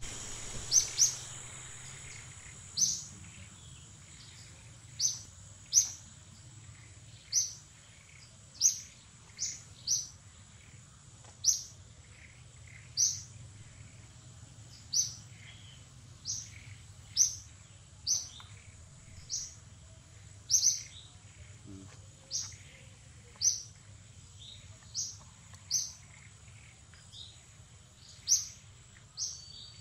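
A bird chirping over and over: short, sharp, high chirps about once a second, sometimes two in quick succession, over a steady high-pitched whine.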